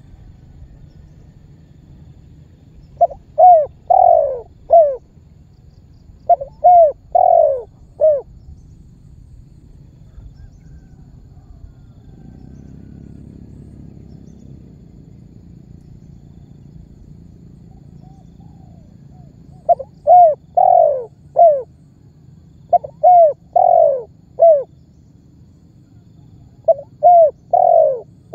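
Spotted dove (tekukur) cooing: five phrases of three or four short coos each, two in the first third and three in the last, with a faint low hum underneath.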